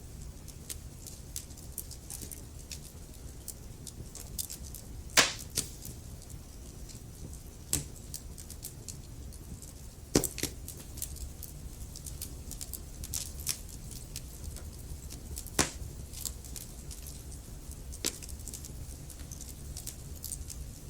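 Wood fire burning in a fireplace: a low steady rumble of flame with constant small crackles, and sharper log pops about 5, 10, 15 and 18 seconds in.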